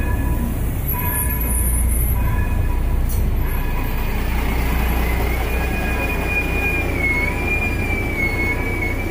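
O-Train diesel railcar (Alstom Coradia LINT) rolling slowly into the station with a steady low rumble, and from about halfway through a high squeal that wavers in pitch as it comes in to stop.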